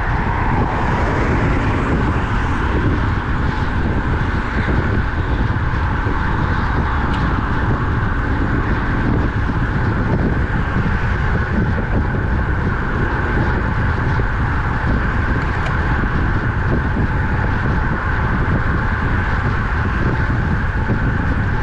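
Steady wind noise rushing over the microphone of a camera riding on a road bike at speed, with road noise underneath.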